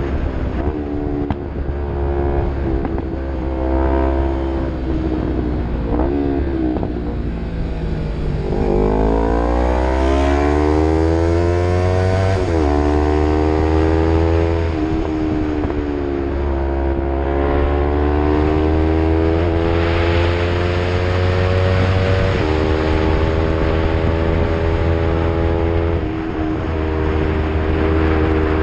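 Yamaha MT-03 motorcycle with an Arrow full-system aftermarket exhaust accelerating under load, the engine note rising in pitch through each gear and dropping sharply at upshifts, several times.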